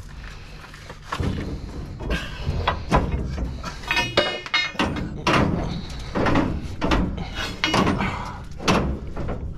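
Repeated metal knocks and clanks from a combine's threshing concave being worked into place with a steel bar, with a short metallic ringing about four seconds in.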